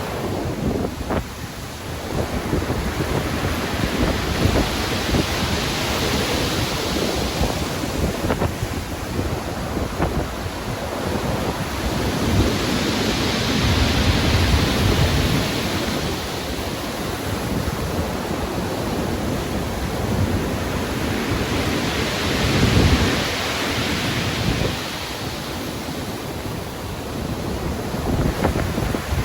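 Stormy sea surf: waves breaking and washing in long swells about every eight seconds, with deep rumbles under the biggest surges.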